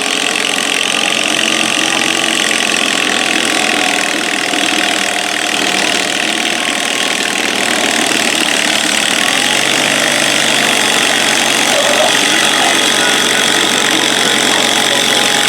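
Small garden tractor engine running steadily under load while pulling a stoneboat, getting slightly louder in the second half.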